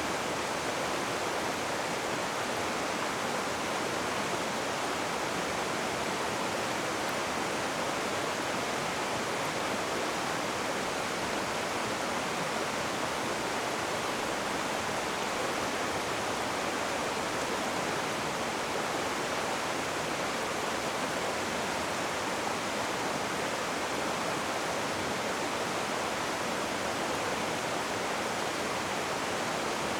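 Rushing river water: a steady, even rush with no breaks or single splashes.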